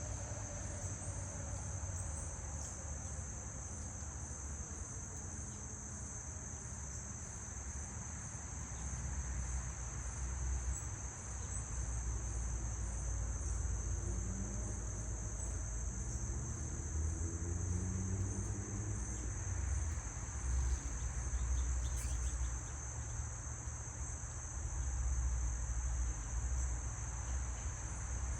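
A steady, high-pitched chorus of insects trilling without a break, over a low rumble that swells and fades.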